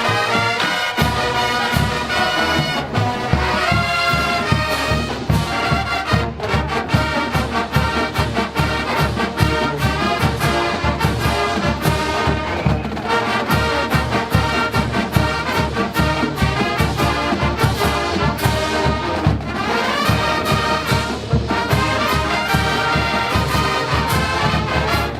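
Marching band playing, brass section carrying the tune over a steady drum beat.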